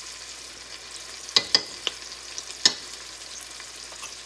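Veal, tomatoes, onions and yogurt sizzling steadily in oil in a non-stick wok, with a few sharp clicks around the middle.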